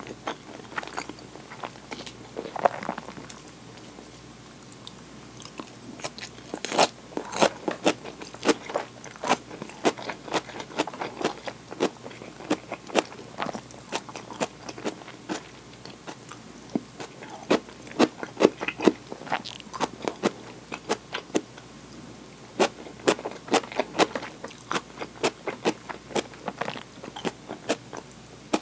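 Close-miked eating: a person chewing and biting food, with sharp crunching clicks coming about once or twice a second.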